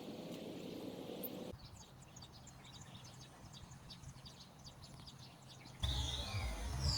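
Faint outdoor ambience with small birds chirping in many short, high calls. Near the end the sound cuts abruptly to louder music.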